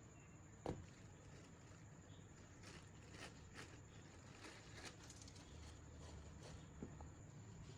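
Near silence with a few faint, sharp clicks and taps, the clearest about a second in.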